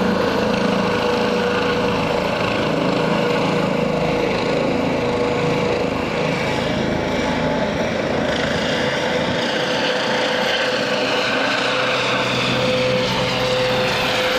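Airbus H135 twin-turbine helicopter running: steady engine and rotor noise with a constant tone.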